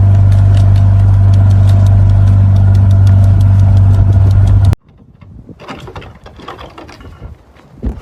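A loud, steady machine hum, like a running motor, with fine rapid ticking. It cuts off suddenly nearly five seconds in, and quieter scattered rustles and knocks follow.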